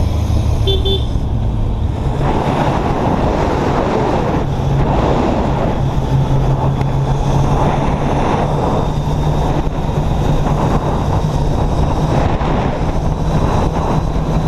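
Kawasaki Z800 inline-four engine running under way, its note stepping up about two seconds in, under heavy wind and road rush on the helmet-mounted microphone. A short horn beep sounds just under a second in.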